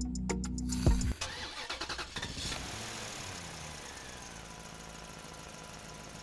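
Music with a steady beat stops about a second in, followed by a tractor engine running steadily.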